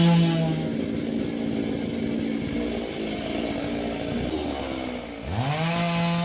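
Two-stroke chainsaw at full throttle, released about half a second in to a rough idle, then revved back up sharply near the end and held high.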